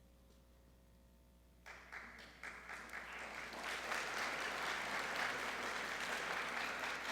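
Audience applauding: a few scattered claps start about a second and a half in and build within a couple of seconds into full, steady applause.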